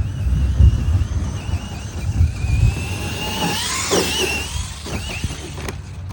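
Electric motor of a radio-controlled truck whining at high pitch, the pitch wavering and rising with the throttle, over a loud uneven low rumble.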